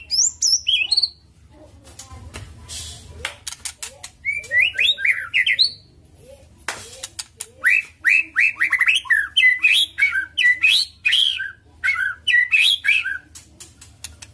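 White-rumped shama (murai batu) singing in bursts of rapid, varied whistled and chattering phrases, with sharp clicks between them and a long fast run in the second half.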